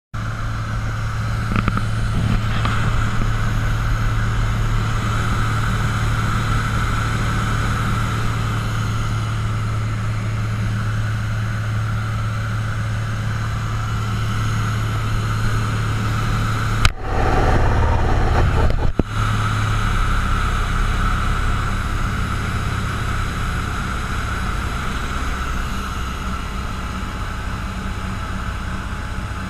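Cessna 172's piston engine and propeller droning steadily in flight. About two-thirds of the way through, two sharp clicks bracket a two-second change in the sound.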